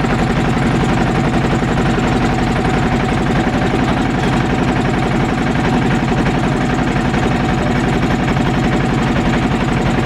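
A motorboat's engine running steadily, heard from on board, with an even, fast pulse and no change in speed.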